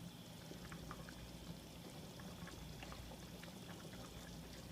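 Green curry of coconut milk and eggplant simmering in the pan: faint bubbling with scattered small pops.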